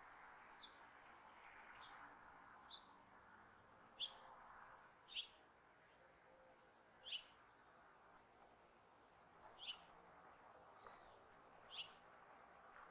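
A small bird giving short, high chirps, about eight in all, spaced a second or two apart, over a faint steady hiss.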